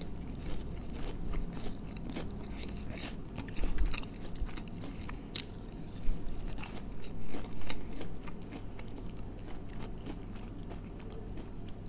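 A man chewing crunchy fried food with his mouth closed: a run of small crisp crunches, with a few louder ones about 4, 6.5 and 7.5 seconds in.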